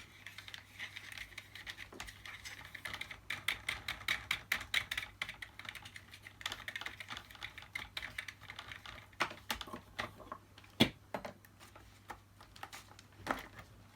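Plastic clicking and rattling as the side filter is unclipped and pulled from a Dyson DC50 vacuum. A quick run of light clicks fills the first half, then a few sharper separate clicks follow, the loudest about three seconds before the end.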